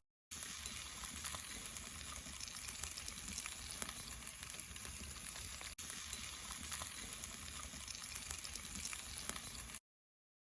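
Food sizzling on a wood-fired barbecue grill, a steady crackling hiss with small pops. It breaks off briefly twice and stops abruptly near the end.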